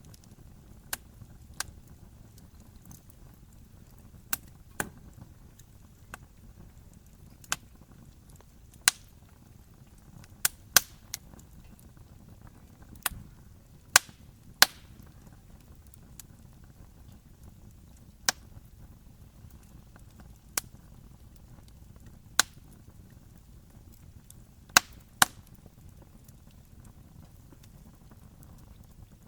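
Wood fire burning with a low steady rumble and sharp, irregular crackles and pops from the burning logs, some much louder than others.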